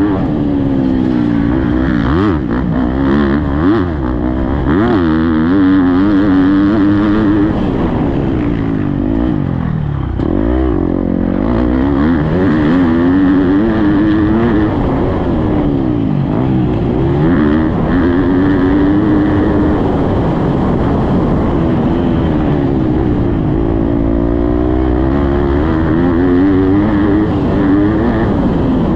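Motocross dirt bike engine revving hard and falling off over and over as it is ridden around a track, its pitch climbing and dropping with each throttle blip and gear change, with a brief drop-off about ten seconds in.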